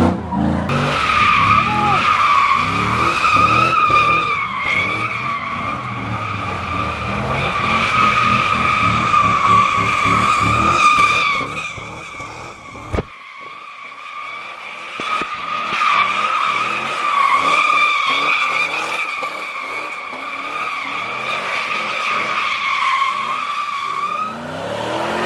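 Car tyres screeching in a long, wavering squeal while the engine revs hard and drops back, as in donuts or a burnout. About halfway through comes one sharp crack, after which the engine is quieter for a few seconds while the tyres keep squealing.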